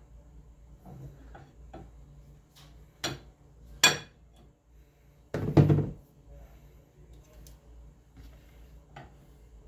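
Hammer blows on a metal bar driving a worn bearing out of a treadmill roller: a few sharp knocks, the loudest and longest about halfway through.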